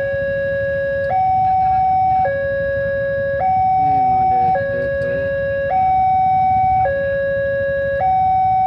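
Indonesian railway level-crossing warning alarm sounding: a loud electronic two-tone signal alternating steadily between a lower and a higher tone, each held a little over a second, warning that a train is approaching and the crossing is closing.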